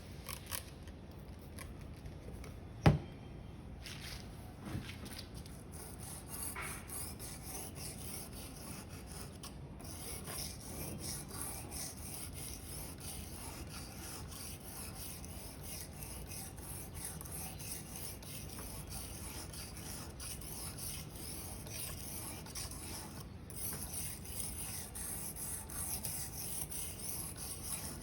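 A dull 10 cm Victorinox paring knife stroked over and over on an 800-grit sharpening stone: a steady rasping scrape with a couple of brief pauses. A single sharp knock about three seconds in is the loudest sound.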